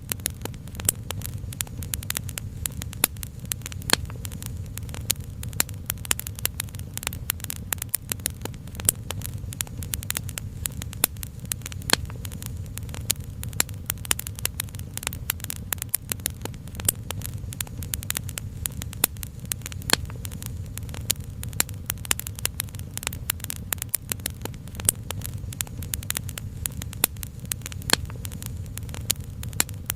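Wood fire crackling, with many small sharp pops and snaps coming irregularly, over a steady low rumble.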